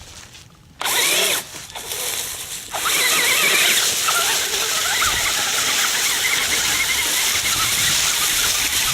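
Radio-controlled truck's motor whining, its pitch wavering up and down as it drives, with the tires churning through dry leaves; it starts about a second in and is steady and loud from about three seconds on.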